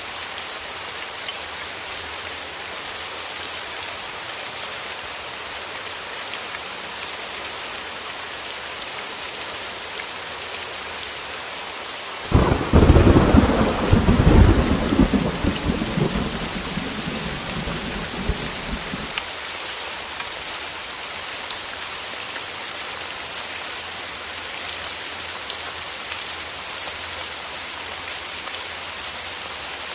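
Heavy rain falling steadily, a constant hiss with scattered drop ticks. About twelve seconds in, a clap of thunder breaks in suddenly and rolls on for around seven seconds, the loudest sound here, before fading back under the rain.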